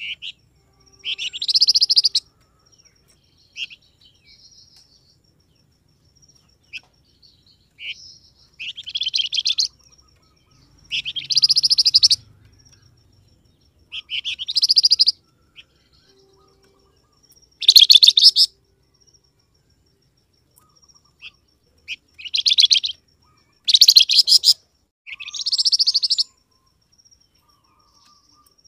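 A songbird known in Indonesia as the flamboyan, calling over and over: loud, high phrases of rapid chattering notes, each about a second long, repeated every two to three seconds, with a few short faint notes in the gaps.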